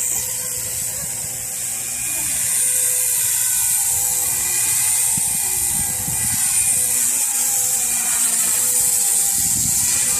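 Electric RC helicopter's motor and rotor whine, holding steady with a hiss over it, while wind rumbles on the microphone.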